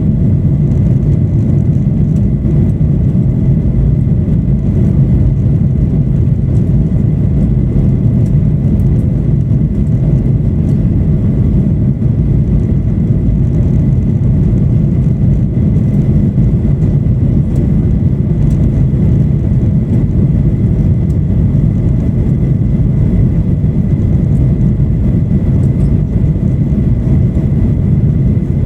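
Boeing 737-800 cabin noise: a loud, steady low rumble of the jet engines and airflow heard from a passenger seat, with a faint thin whine above it.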